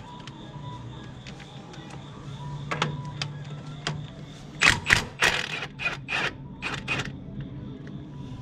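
Hand tools clicking and knocking on metal while a killer dowel pin retaining tab is fastened on a 12-valve Cummins engine: a few light clicks, then a quick run of sharper metallic knocks in the second half, over a steady low hum.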